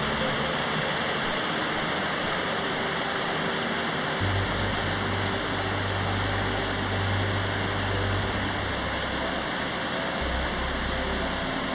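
Steady roar of a waterfall, with background music faint under it.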